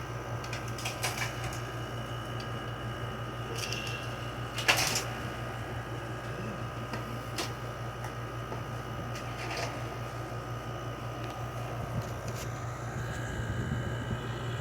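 LG 6000 BTU window air conditioner running, its compressor giving a steady low hum under a fan whir with a few thin steady tones. A few short clicks sound over it, the loudest about five seconds in.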